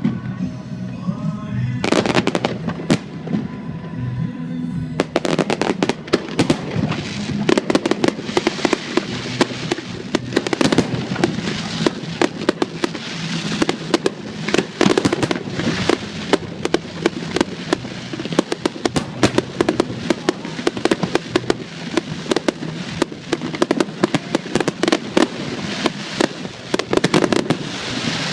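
Fireworks display: aerial shells bursting, a few bangs at first, then a dense, rapid run of bursts and crackling from about five seconds in.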